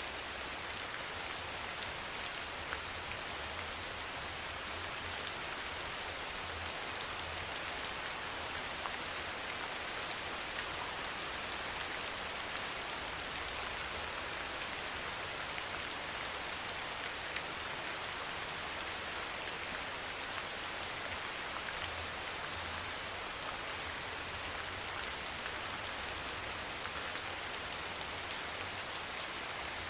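Steady soft rain falling: an even hiss with scattered faint drop ticks.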